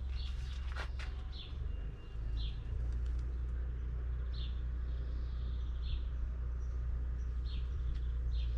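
A bird chirping repeatedly, short high notes about once a second, over a steady low hum.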